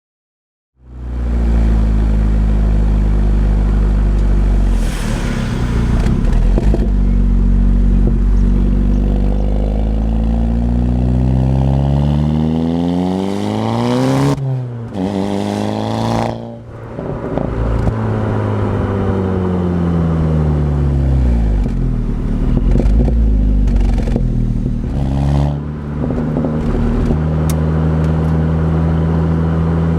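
Audi S3 8P's turbocharged 2.0-litre four-cylinder through a BCS Powervalve exhaust with the valve clamped partly open, starting up loud just under a second in. Its note climbs slowly for several seconds, breaks off about fourteen seconds in with a few sharp cracks, falls away, rises again and settles to a steady drone near the end.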